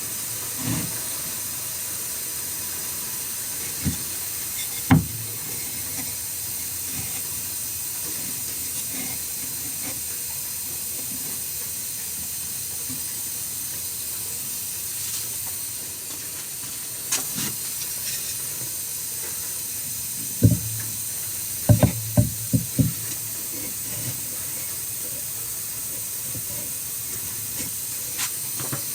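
Steady hiss of heavy rain falling, with a few sharp knocks and clatters, one about five seconds in and a quick run of them around twenty-two seconds in.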